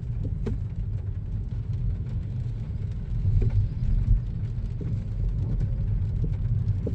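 Steady low road and tyre rumble heard inside the cabin of a 2023 Kia Niro moving slowly, with a few faint ticks. The car is not picking up speed despite the accelerator being pressed, which the owner takes for the car being stuck in electric mode or engine braking.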